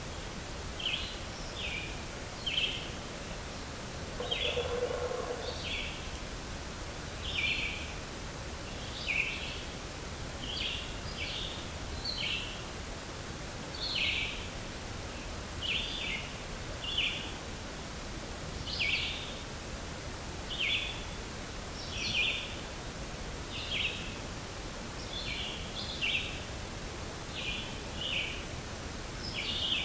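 A long run of short, high-pitched percussive ticks, roughly one a second and often in close pairs, over outdoor ambience. About four seconds in, a single lower call sounds once.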